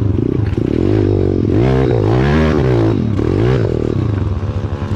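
Pit bike's single-cylinder four-stroke engine revving under load, its pitch rising and falling several times in the middle as the throttle is worked.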